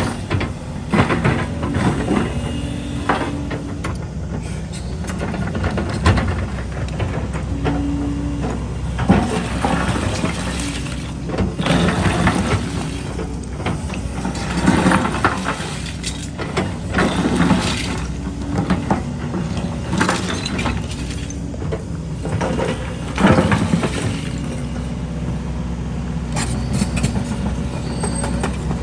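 Hydraulic excavator's diesel engine running steadily, with repeated crunching and clattering of broken concrete rubble being scooped and dumped, every few seconds.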